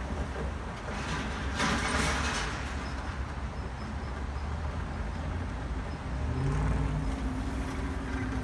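Steady low rumble of vehicles at a railway station, with a loud hiss about two seconds in and a low hum near the end.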